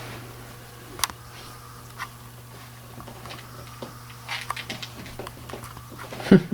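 Dog gnawing and working a large chew bone: irregular clicks and knocks, a sharp click about a second in and a busier cluster in the second half, over a steady low hum.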